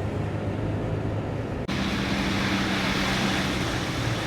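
Subaru car driving, heard from inside the cabin: a steady engine hum under road and tyre noise. It changes abruptly about one and a half seconds in, after which the road hiss is louder.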